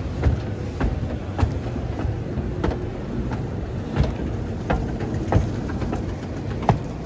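Footsteps on a hard floor at a steady walking pace, about three steps every two seconds, over a steady low background rumble.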